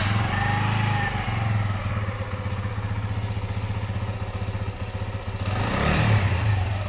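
Mash Seventy Five 125's single-cylinder engine idling, then revved once near the end, its pitch rising and falling back. The throttle blip raises the stator's AC output during a voltage test.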